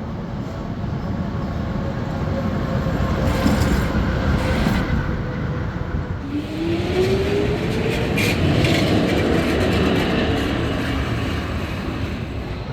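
City tram passing along a street amid traffic. Its electric motors give a rising whine about halfway through as it pulls away.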